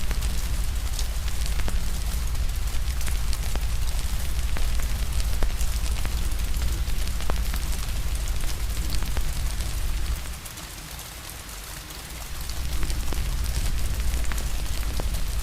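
Steady rain hiss mixed with a wood fire crackling in scattered sharp pops, over a low rumble that drops away for about two seconds in the second half.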